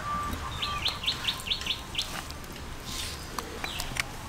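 Birds chirping: one calls a quick run of about seven short, high chirps lasting about a second and a half, with scattered single calls around it.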